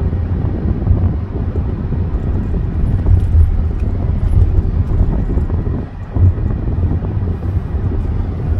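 Car driving at road speed: a steady low rumble of tyre and wind noise with no distinct tones.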